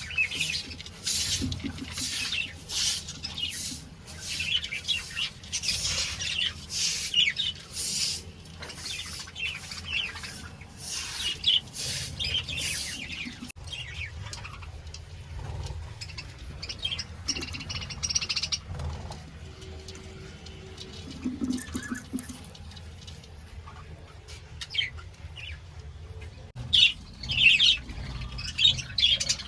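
A colony of budgerigars chirping: dense, rapid chirping for the first half, thinning out in the middle, then picking up again near the end.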